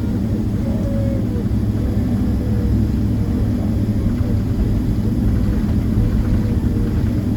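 Steady low rumble inside a Boeing 767-300ER's cabin on the ground before takeoff: the engines running at low power, with the cabin air flow.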